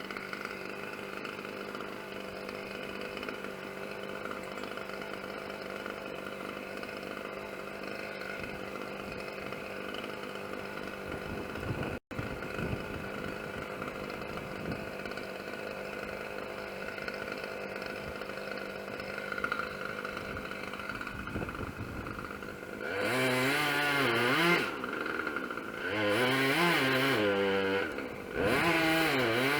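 Chainsaw idling steadily, then revved hard in three bursts near the end, its pitch wavering under load as it cuts into wood.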